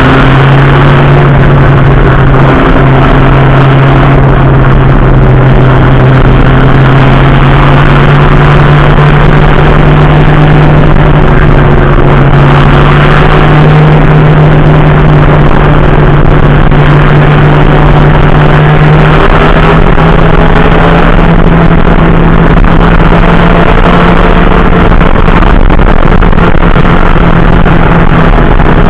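Racing car's engine running loud at a nearly steady pitch that creeps up slowly, with a small step up about two-thirds of the way through, over heavy wind and road noise.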